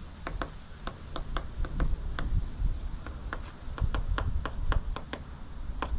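Woodpecker pecking at the painted wood siding of a shed, chipping off paint: irregular sharp taps, a few a second, over a low rumble.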